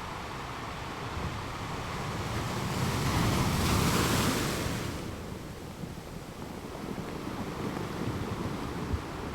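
Open-sea wind and wave noise, with a rush of noise that swells to a peak about three to four seconds in and then fades.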